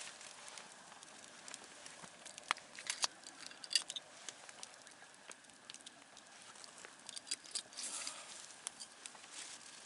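Campfire crackling: irregular sharp pops and snaps over a soft steady hiss, with a brief flurry of pops about eight seconds in.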